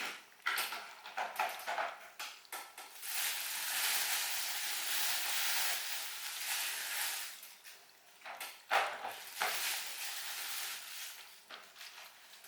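Utensils clicking and tapping against dishes, with a steady crackling hiss for several seconds in the middle.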